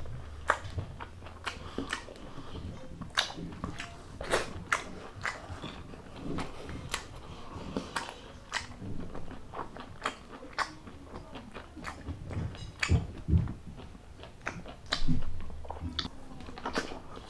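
Close-miked eating: a person chewing and biting food, with many sharp, irregular mouth clicks and smacks and a few louder bites in the second half.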